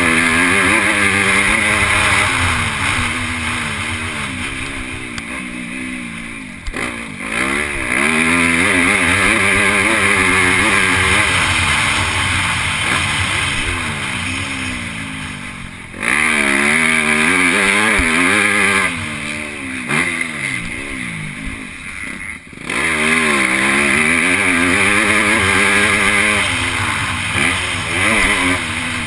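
MX2 motocross bike engine at race pace, revving hard and rising and falling in pitch as the rider works the throttle. It drops off several times and then comes back to full throttle, the first time sharply about 16 s in.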